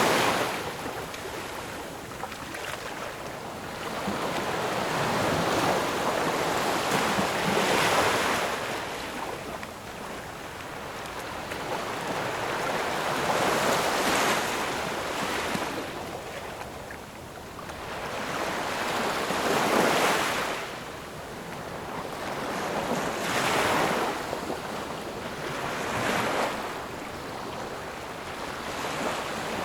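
Ocean waves breaking on a shore, each surge of surf swelling and washing back every few seconds.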